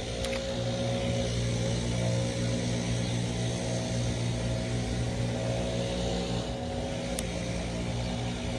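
An engine running steadily with an even, humming pitch. Its tone shifts slightly about six to seven seconds in, and there is one sharp tick near seven seconds.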